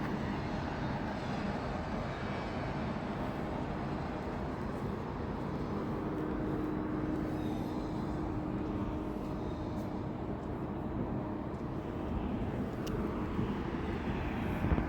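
A vehicle running steadily, a constant engine hum under even road noise.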